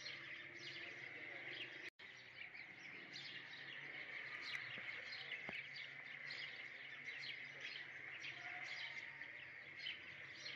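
Faint chorus of birds chirping, many short high calls a second over a steady high hiss, cutting out for a moment about two seconds in.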